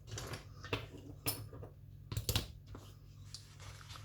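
Small objects being handled on a work table: a few light knocks, clicks and rustles, over a low steady hum.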